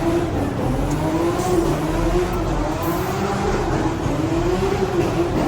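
Car engine revving over and over, its pitch rising and falling in repeated waves, over a steady low rumble.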